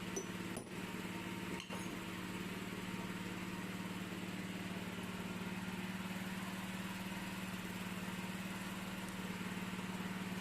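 Electric motor of a rotary hammer running steadily: a continuous hum with a hiss of air and brushes above it, with brief breaks in the first two seconds.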